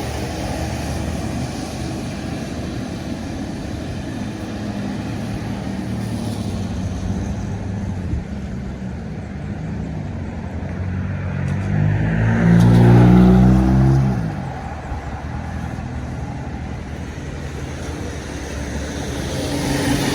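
Road traffic: vehicle engines running, with one passing close and loudest about twelve seconds in, its engine pitch falling slightly as it goes by.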